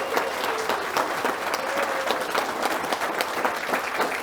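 Wedding guests applauding: many hands clapping steadily, with a faint voice calling out through it.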